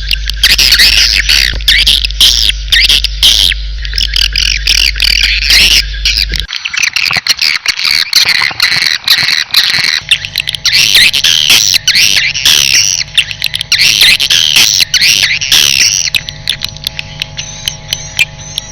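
Many birds chirping and squawking in a dense, rapid chorus of short high calls. A steady low hum runs underneath, dropping out for a few seconds in the middle.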